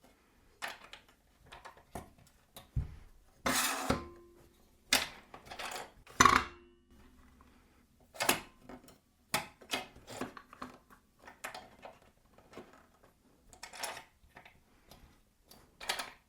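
Metal parts of a pillar drill being handled and refitted by hand: irregular clinks, knocks and short scrapes, a dozen or more spread unevenly, with a couple of longer scraping sounds a few seconds in.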